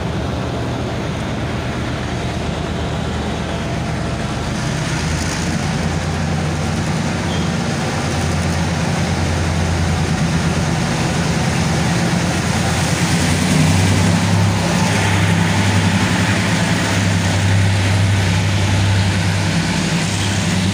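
Abu Qir line diesel train pulling out of the station. A low engine hum and the rumble of coaches rolling past grow louder as it picks up speed, the hum shifting pitch a couple of times.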